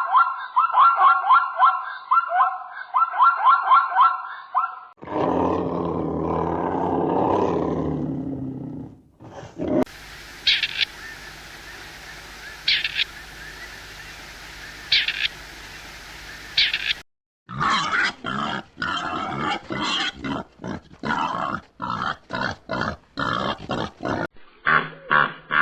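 A string of different animal calls, one after another: first a fast run of short repeated pitched calls, then a long rough low call about five seconds in. After that comes a quieter stretch with a faint click every couple of seconds, and near the end a choppy, rapid series of calls.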